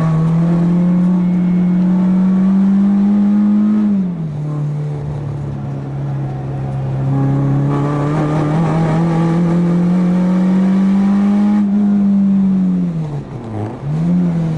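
Four-cylinder race-prepared hatchback engine pulling hard on a circuit, its note slowly rising, dropping suddenly at a gear change about four seconds in, then climbing again. Near the end the revs fall away under braking, with a quick blip back up just before the end.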